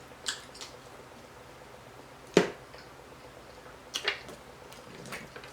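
Close-miked eating sounds from biting into and chewing BBQ ribs: a few scattered wet mouth clicks and smacks, the loudest about two and a half seconds in and a quick pair around four seconds.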